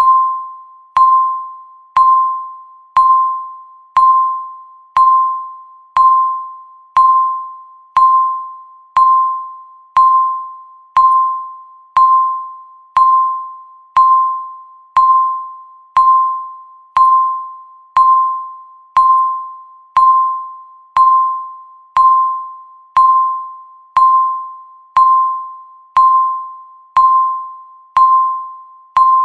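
Countdown timer's electronic beep sounding once every second: a single pitched tone with a sharp attack that fades before the next one.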